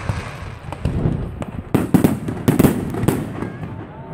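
Fireworks going off at a display: a run of sharp bangs and crackling bursts in the second half, over a continuous rumble of further explosions.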